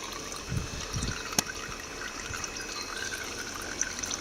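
Warmed engine oil trickling steadily from a Zontes Scorpion 125 motorcycle's drain hole into an old milk bottle during an oil change. A sharp click sounds about a second and a half in.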